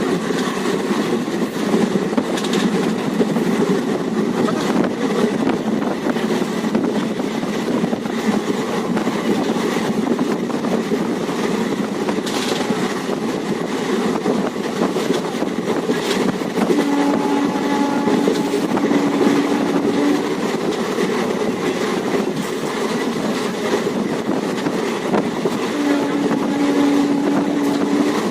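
Nagda–Bina Express heard from on board while running: a steady rumble of wheels on the track. A horn sounds twice, a held tone of about three seconds, once after the middle and again near the end.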